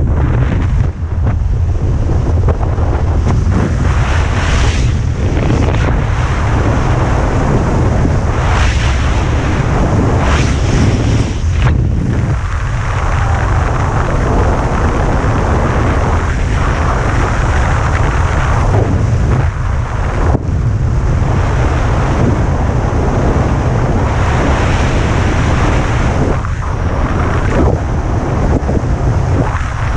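Wind buffeting a skydiver's camera microphone: a loud, continuous rush with a heavy low rumble, swelling and easing in gusts every second or two.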